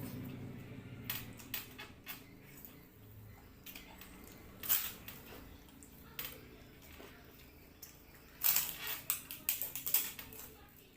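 Eating at a table: scattered light clicks and clatter of a plate and utensils, with a louder clatter about five seconds in and a quick run of sharp clinks near the end.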